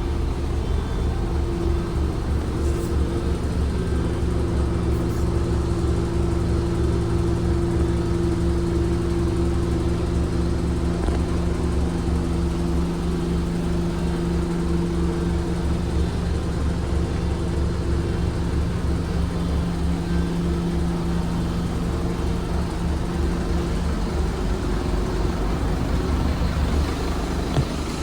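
Scania N230UD OmniCity bus's five-cylinder diesel engine running under way, a low pulsing rumble with a steady drivetrain hum that holds for most of the time and eases off near the end.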